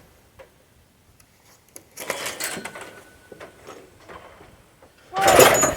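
Steel sawmill parts being handled and shifted, scraping and knocking. The sounds come in two bursts, about two seconds in and a louder one near the end with a squeal in it.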